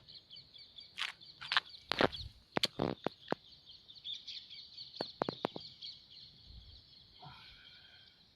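Birds calling at a lakeside over a steady, high-pitched trilling chorus. Sharp clicks come in a run over the first half, and a short pitched call sounds near the end.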